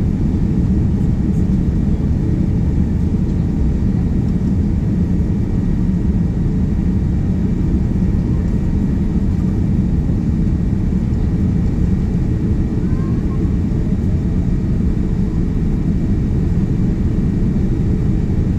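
Steady cabin noise of a Boeing 787-9 airliner in flight, heard from a window seat inside the cabin: an even, low rumble of airflow and engines that does not change.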